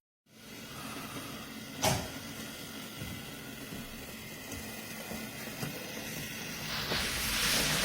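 Battery-powered Hape toy train running along its track with a steady motor noise, a sharp knock about two seconds in, and a louder hiss near the end.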